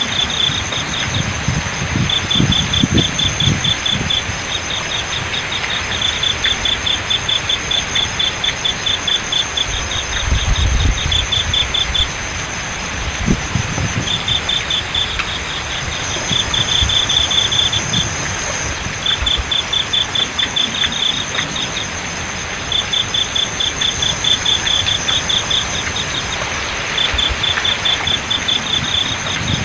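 Crickets chirping in repeated bouts of rapid pulses, each bout about two seconds long with short gaps, over a steady high-pitched insect trill. Beneath them runs the constant rush of flowing water.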